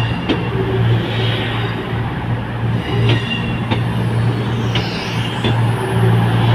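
Train at a station platform: a steady low drone with a slight pulse, with several sharp metallic clicks and short squeaks from the wheels and rails.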